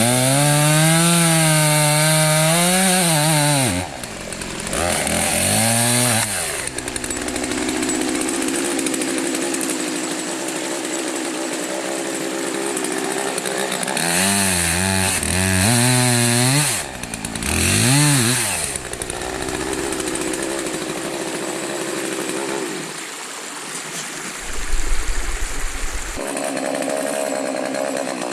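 Gas chainsaw revving up and down several times between long steadier stretches at a lower, rougher note while it cuts through downed wood. A brief louder low rumble comes near the end.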